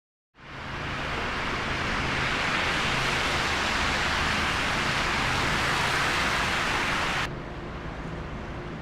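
Steady rushing noise of street traffic on snowy, slushy roads. About seven seconds in it cuts abruptly to a quieter, duller rush.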